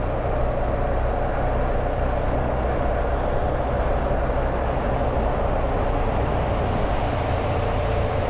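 BMW R1200GSA's boxer-twin engine running at a steady cruise, with steady wind and road noise.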